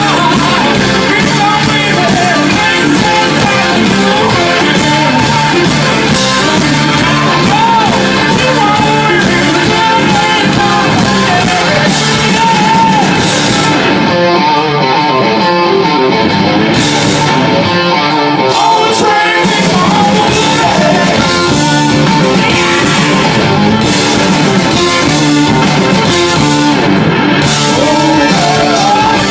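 Rock band playing live: electric guitars, bass and drums with a sung lead vocal. The top end thins out for a few seconds around the middle.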